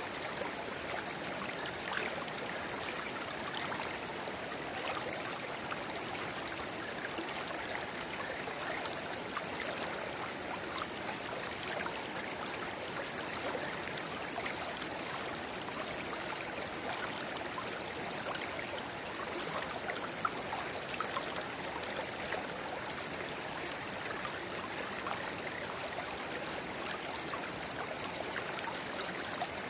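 Shallow river water babbling steadily where a narrow spring-fed outflow trickles into the main stream, dotted with small splashes.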